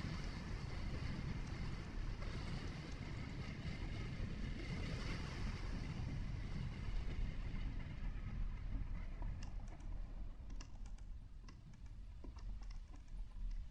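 Steady low rumble of a vehicle's engine and tyres on the road, easing off about two-thirds of the way through. A scattering of light clicks follows.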